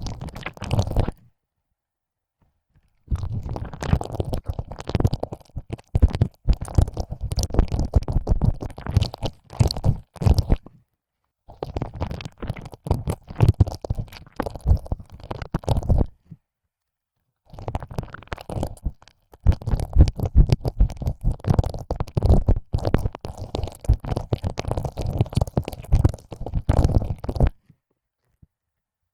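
ASMR ear licking: a tongue pushed in and out of an ear hole, making close, dense wet clicks and smacks. It comes in four stretches broken by short silences and stops about a second and a half before the end.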